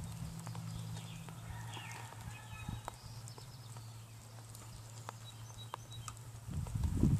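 Baby robins in the nest giving a few faint, high peeps about two seconds in, over a steady low hum. A run of low thumps starts near the end.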